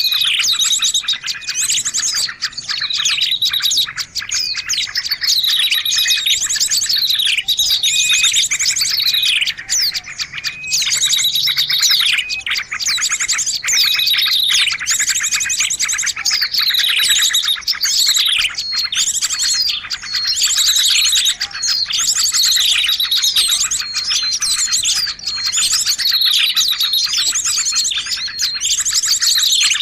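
A bird-lure track of many small birds chirping and twittering at once, dense and unbroken, with quick falling calls repeating every second or two over a continuous high twitter.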